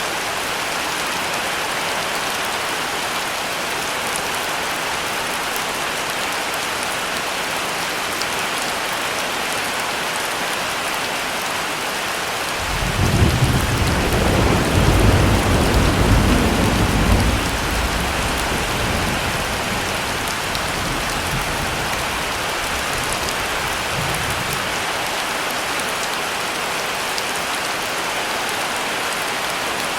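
Heavy rain falling steadily. About twelve seconds in, a roll of thunder breaks in, rumbles loudest for a few seconds and slowly dies away under the rain.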